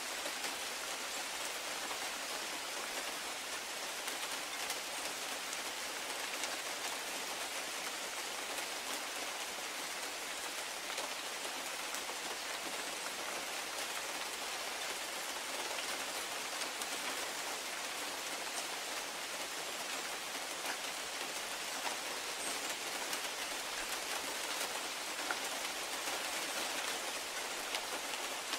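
Steady rain falling on a large conifer and a grass lawn: an even hiss with scattered sharp drop taps.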